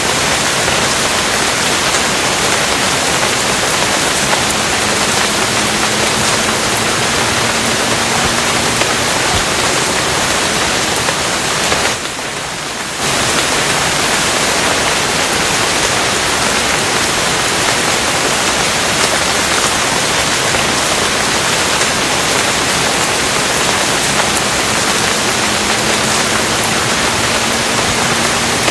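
Steady heavy rainfall, a dense even hiss that dips briefly about twelve seconds in.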